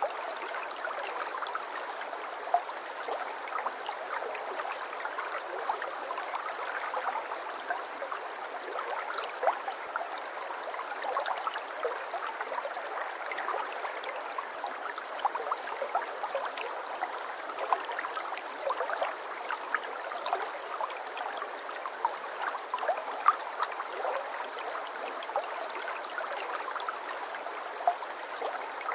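Shallow brook babbling steadily over stones, a constant rush of water with frequent small splashes and gurgles.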